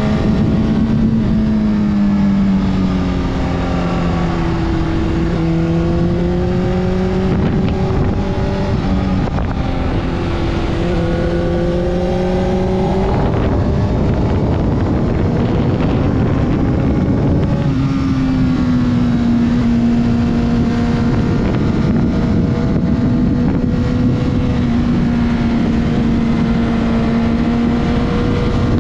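Honda CBR600RR inline-four motorcycle engine at part throttle, with wind rushing over the helmet camera's microphone. The engine note sags, then climbs for several seconds, goes rough and unsettled a little before halfway, and then holds at a steady pitch through the rest.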